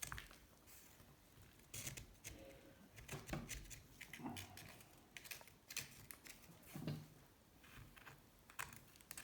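Irregular light clicks, clinks and knocks of small metal engine parts and tools being handled on a workbench while a motorcycle gearbox is taken apart, with a few duller thuds.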